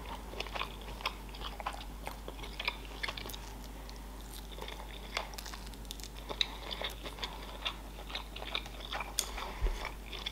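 Close-miked chewing of shrimp nigiri sushi, with quiet, scattered small wet mouth clicks.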